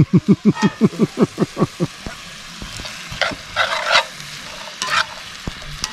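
Food frying in a skillet, sizzling steadily as it is stirred, with scraping bursts about halfway through. In the first two seconds a quick run of about a dozen short falling chirps fades away.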